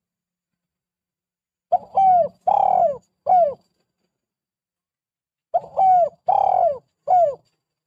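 Spotted dove (tekukur) cooing: two phrases of four coos each, about four seconds apart, each coo rising briefly and then falling in pitch.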